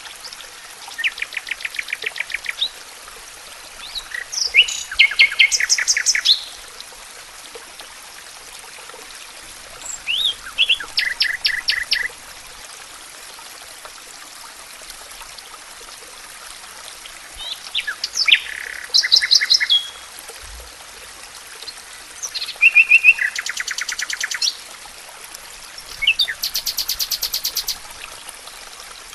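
A songbird singing six short phrases, each a quick run of repeated notes lasting one to two seconds, with pauses of a few seconds between them. A steady rush of running water sits underneath.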